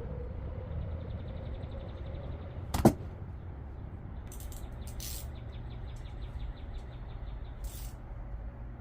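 A single sharp metallic clank about three seconds in, from a hand tool knocking against metal during valve adjustment on a pit bike engine, over a steady low rumble, with a few short hissing sounds later.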